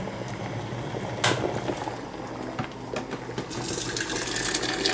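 Tap water running into a thermal coffee carafe, getting louder and fuller about three and a half seconds in. One sharp knock a little over a second in.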